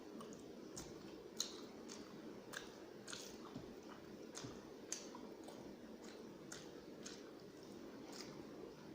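A person chewing mouthfuls of rice and curry close to the microphone: soft, wet mouth sounds and irregular small clicks and smacks, with a sharper click about a second and a half in and another about five seconds in.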